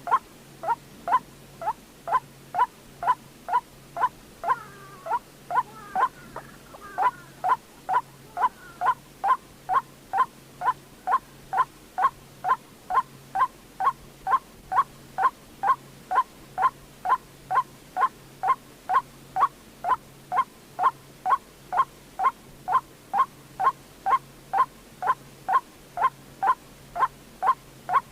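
White-breasted waterhen calls played as a bird-trapping lure: one short note repeated evenly about twice a second, with a brief tangle of overlapping notes about five seconds in.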